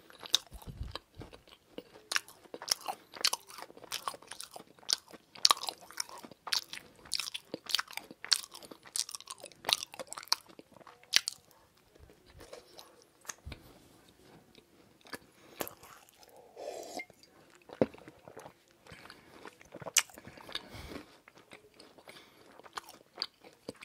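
Close-miked chewing of a crème brûlée baby choux pastry: wet mouth clicks and crackles, dense for roughly the first eleven seconds, then sparser.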